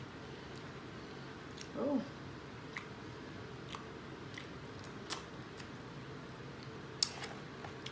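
Close-up eating sounds of a person biting and chewing corn on the cob: scattered wet mouth clicks and smacks over a steady low room hum. There is a brief hummed sound about two seconds in and a sharper click near the end.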